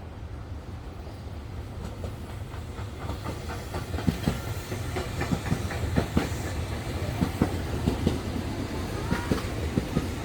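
Nankai electric train running on the tracks, a low rumble that grows louder about four seconds in, with a quick series of clacks as the wheels cross the rail joints.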